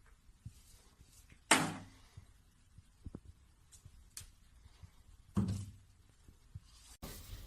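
Two thuds about four seconds apart, each dying away quickly, with a few faint knocks between them.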